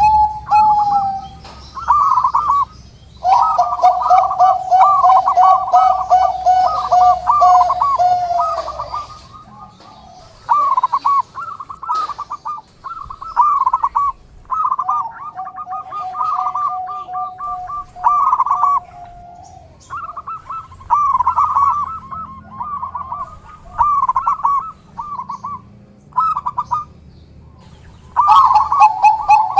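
Zebra dove (perkutut) song: bouts of rapid, rolling coo notes a few seconds long, repeated with short pauses between them, sometimes over a long held coo.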